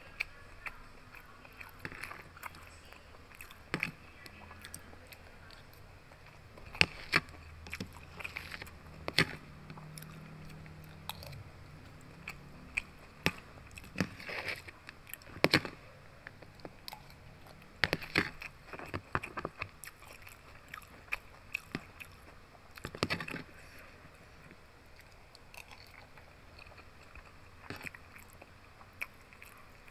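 Eating sounds: chewing and biting of pork belly with a raw shallot and chilli sambal and rice, with scattered sharp clicks of a metal spoon and fork against a plastic food container.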